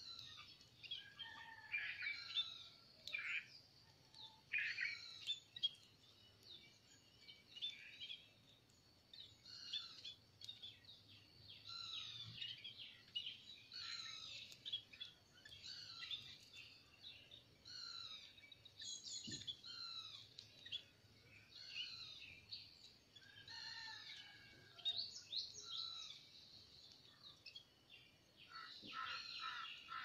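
A chorus of small songbirds chirping and twittering: many short, quick calls overlapping, with denser bursts around a few seconds in and near the end.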